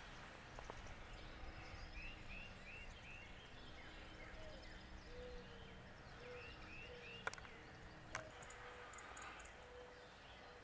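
Faint wild birdsong. Two quick runs of three or four short high whistled notes, a series of low, evenly spaced hooting notes in the second half, and two sharp clicks.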